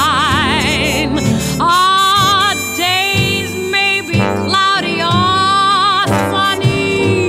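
A female jazz vocal with orchestral accompaniment: a long held note with wide vibrato, then phrases of held, wavering notes over the band.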